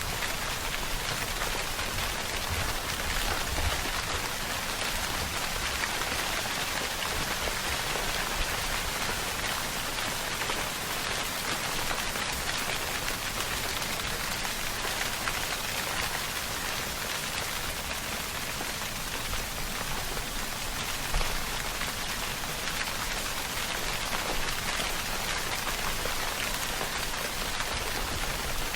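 Steady rainfall, a dense even hiss of raindrops on a surface with no thunder.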